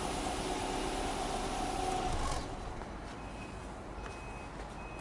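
Subaru Impreza hatchback 15S's 1.5-litre flat-four boxer engine idling steadily, then switched off a little over two seconds in.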